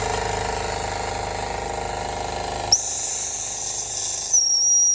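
Jensen 75 live steam engine running fast with a rapid, even beat and steam hiss. A bit under three seconds in, the running gives way with a click to steam hissing with a high, steady whistling tone, which is strongest near the end.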